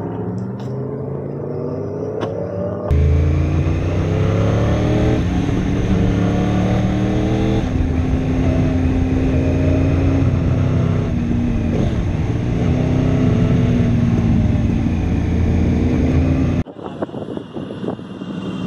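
Superbike engine accelerating, its note climbing in pitch and then holding fairly level. The sound jumps abruptly to a louder clip about three seconds in and drops off suddenly near the end, as in edited footage.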